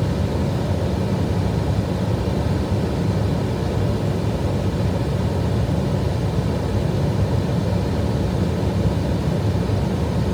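Steady flight-deck noise of an Airbus A320 on approach: an even rush of airflow and engine noise, strongest in the low range, with no change through the stretch.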